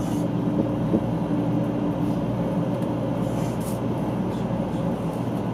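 Steady running noise of a JR West 500 series Shinkansen heard inside the passenger cabin while the train is moving: an even rumble with a faint steady hum.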